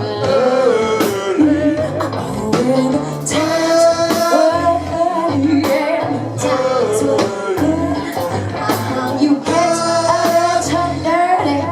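Live soul-rock band playing a song: singing over bass, guitar and drums, with regular drum hits.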